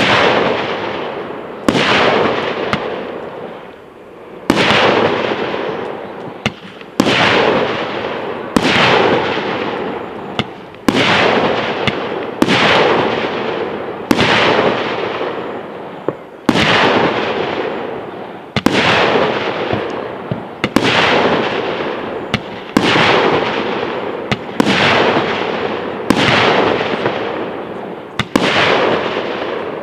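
Aerial firework shells bursting one after another, about every two seconds. Each sharp bang is followed by a long fading rumble before the next one.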